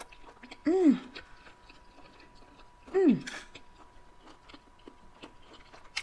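A person chewing a mouthful of noodles with soft, wet mouth clicks. Twice, about a second in and again about three seconds in, she gives a short "mmm" of enjoyment that falls in pitch.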